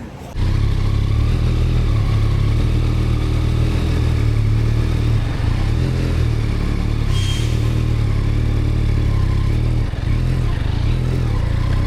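Motorcycle engine running steadily close to the microphone, starting abruptly about half a second in, with a brief high chirp about seven seconds in.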